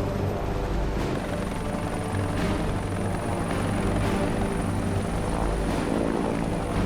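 Air ambulance helicopter's rotor and turbine running steadily as it comes in to land, with a steady high whine setting in about a second in.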